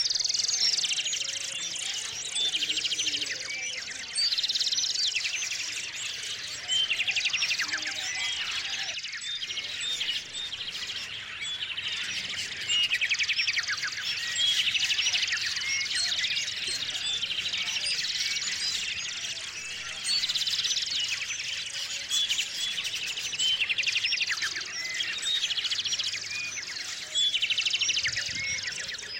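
Many small songbirds chirping and calling over one another, with a loud, fast trill standing out every few seconds.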